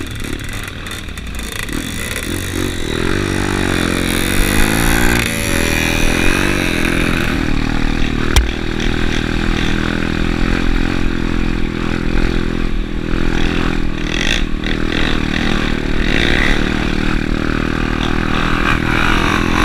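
Dirt bike engine running under way, its pitch rising and falling a few times early on before settling into a steady drone, with rattling and clatter over it.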